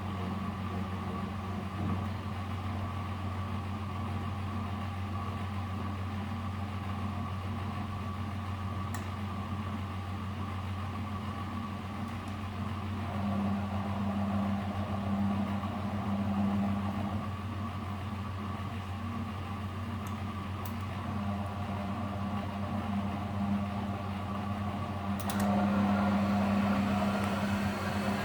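Miele W761 washing machine's drum motor running with a steady hum. It gets louder about halfway through, and near the end the motor speeds up with a rising whine.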